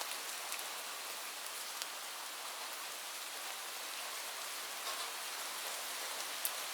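Light rain falling steadily, an even hiss of many drops with a few separate drop ticks standing out, one near the end.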